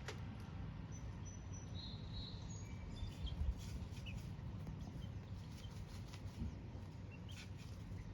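Hens dust bathing in loose dirt: faint scratching and ticking with a few short, high chirps in the first few seconds, over a low steady rumble. There is a single low thump about halfway through.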